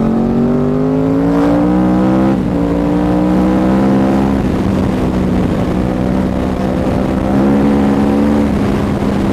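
Yamaha R1's crossplane inline-four through a Toce full-system exhaust, accelerating hard. The note rises for about two seconds, drops at a gear change and runs on fairly steady, then rises again and drops at another shift near the end.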